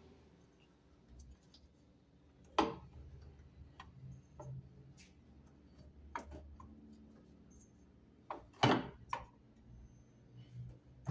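Scattered knocks and clicks as washing-machine parts are handled and fitted into place: a few separate knocks, the loudest about two and a half seconds in and a cluster of three about three-quarters of the way through.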